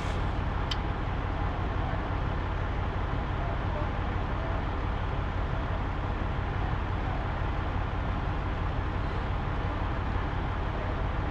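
Steady low drone of a big rig's diesel engine heard from inside the cab, with one short click just under a second in.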